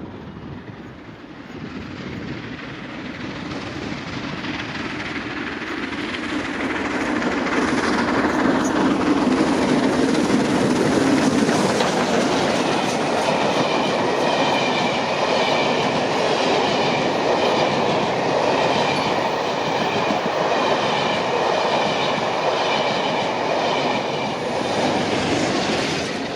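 A train hauled by a Royal Scot class steam locomotive passing close by. It builds up over several seconds, then a long rake of coaches rolls past with a steady, repeating clatter of wheels on rail joints until near the end.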